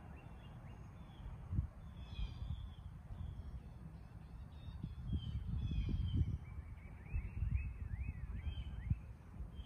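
Birds calling from the trees, short high chirps scattered throughout and a quick run of repeated notes in the last few seconds, over a gusty low rumble of wind on the microphone.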